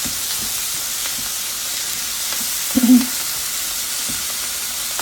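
Onions and canned mushrooms sizzling steadily in a hot skillet, with faint taps as they are stirred. A brief low pitched sound near the middle is the loudest moment.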